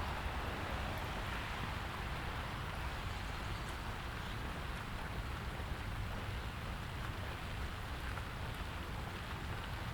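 Steady rain falling, an even hiss with a few faint drop ticks, over a low rumble.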